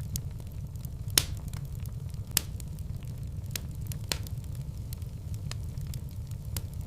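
Wood fire in a fireplace crackling over a steady low rumble, with scattered sharp pops; the two loudest come about one and two and a half seconds in.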